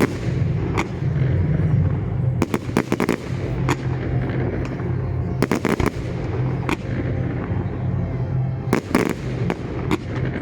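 Display fireworks going off in clusters of sharp cracks and bangs every second or two, some in rapid crackling runs, over a steady low hum.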